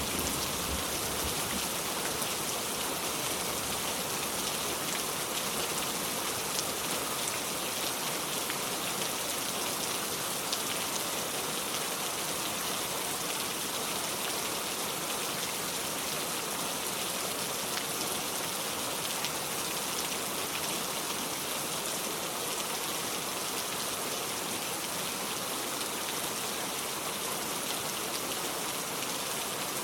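Steady rain, an even hiss with a fine patter of individual drops.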